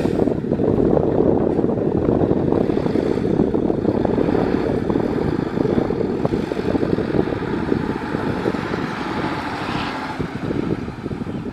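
Heavy diesel construction machinery running, a loud steady engine rumble with a rattling edge.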